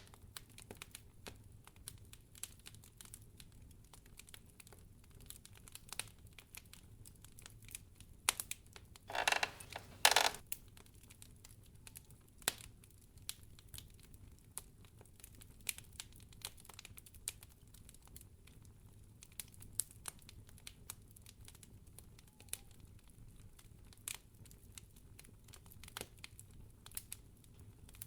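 Wood fire crackling in a fireplace: irregular sharp pops and snaps scattered throughout, with a denser stretch of crackling about nine to ten seconds in.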